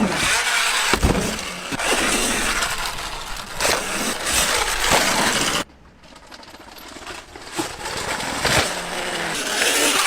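Motorcycle on the move, its engine under a heavy rush of wind noise. The sound drops away abruptly just past halfway, then builds up again.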